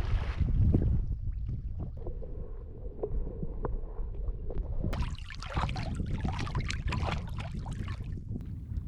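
Wind buffeting the microphone, then from about five seconds in a stretch of water splashing as a person swims in the lake, ending shortly before the end.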